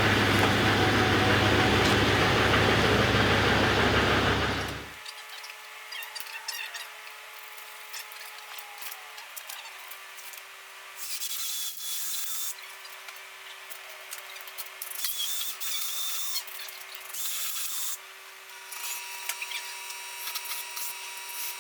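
Pickup truck engine idling, then after about five seconds it cuts to a cordless drill running in short bursts while holes are drilled and a snow deflector is bolted onto a snowplow blade.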